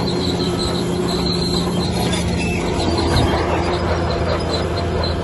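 Heavy diesel earthmoving machine running steadily, with a high-pitched squeal over the engine hum, typical of a bulldozer's steel crawler tracks.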